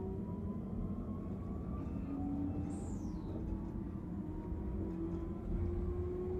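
Regional passenger train heard from inside the carriage, pulling away from the station: a steady low running rumble with a motor whine slowly rising in pitch as it picks up speed. A brief high falling squeal comes about three seconds in.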